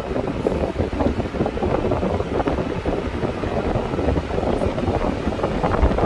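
Wind buffeting the microphone: a steady, rumbling, fluttering noise.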